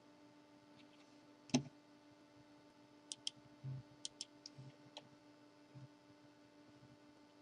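Computer mouse clicking: a louder single click, then several sharp clicks in quick pairs, with a few soft low thuds over a faint steady hum.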